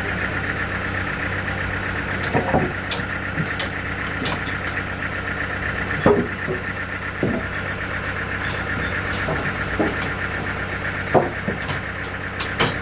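Sawmill machinery running with a steady drone, with scattered clicks and knocks over the top.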